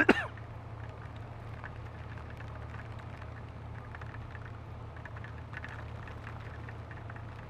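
Honda Gold Wing motorcycle engine running steadily under a constant hiss of wind and wet-road noise, with light scattered ticks of raindrops hitting the camera.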